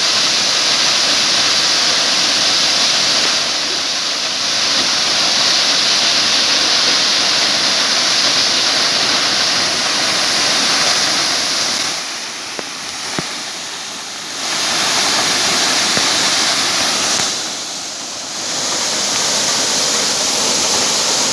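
Waterfall: the steady loud rush of water falling at the foot of the falls. It drops quieter twice, for a couple of seconds about halfway through and for about a second near the end.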